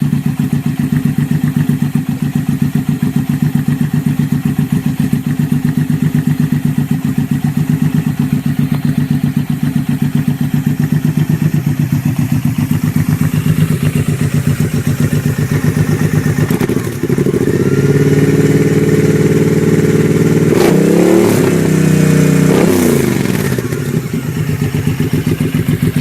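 Motorcycle engine through its exhaust, idling with a steady pulse. About 17 seconds in it is revved up and held, with quick throttle blips rising and falling around 20 to 23 seconds, then it drops back to idle.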